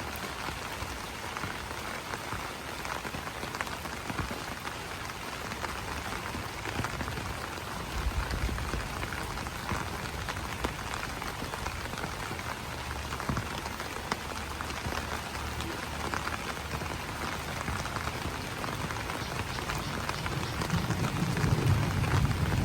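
Steady rain falling on broad banana leaves, a dense patter of individual drop hits. A low rumble rises in the last couple of seconds.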